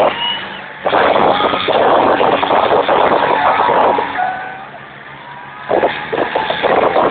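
Tractor diesel engines revving hard under load. They ease off briefly about half a second in and again for about a second just before the five-second mark, then surge back up.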